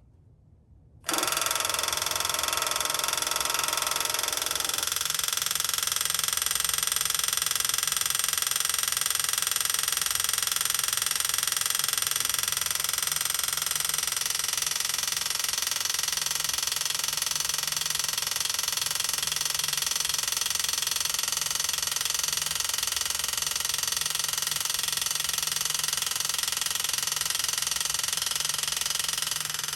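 Chinese diesel heater's piston-type fuel pump starting up about a second in and running with a steady, fast, loud racket. It is pumping dry while priming, before the diesel has reached it.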